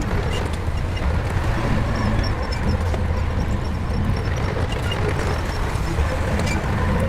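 Shantui bulldozer's diesel engine running steadily under work, a continuous low rumble with faint scattered clicks above it.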